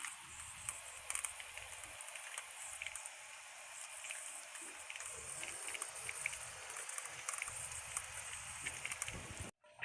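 Faint, steady water pattering with many small irregular ticks, like drops or a light spatter of water.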